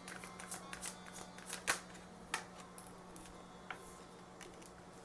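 Tarot cards being shuffled and handled: a run of irregular flicks and snaps, the sharpest about a second and a half in, over a faint steady low hum.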